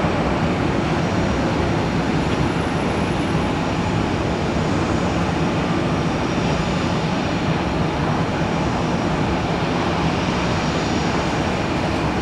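Jet airliner engines running: a loud, steady rushing noise with a faint high whine.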